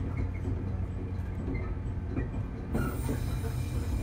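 Shinano Railway 115-series electric train heard from inside the front cab while running: a steady low rumble of wheels and running gear, with a few knocks from rail joints or points. A higher hiss joins about three seconds in.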